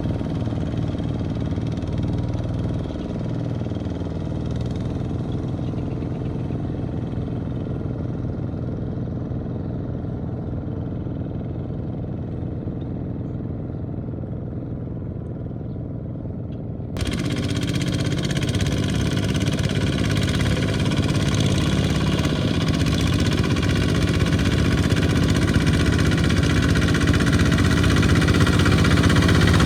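Small farm tractor engine running steadily. About halfway through, the sound cuts abruptly to a louder, brighter engine.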